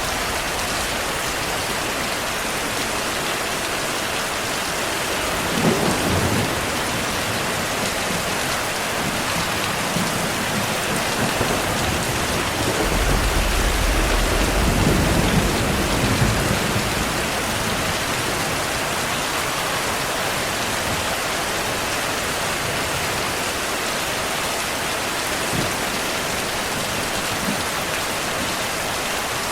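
Heavy rain falling steadily, with thunder: a short clap about six seconds in and a longer low rumble around the middle.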